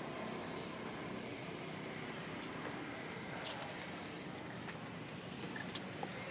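A bird giving five short, high, rising chirps, one every second or two, over steady outdoor background noise.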